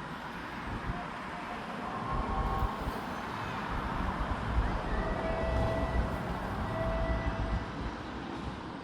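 Train running with a steady hiss and a low rumble that builds about two seconds in, with a few faint, thin, held tones from about two to seven seconds in.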